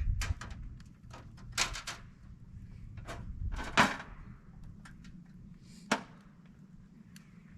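Scattered knocks and clatters of handling gear during camp clean-up: several sharp hits in the first few seconds, the loudest about four seconds in, and one more near six seconds, then a lull.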